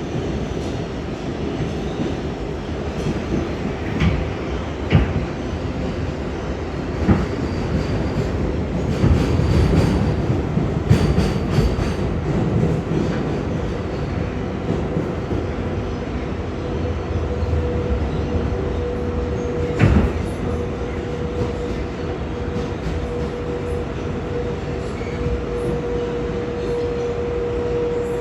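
R142A subway train running at speed, its wheels clattering over the rails with a few sharp knocks. A steady whine sets in about two-thirds of the way through.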